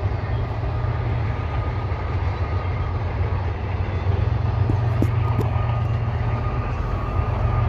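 Freight train running past, a steady low rumble with a faint thin whine above it.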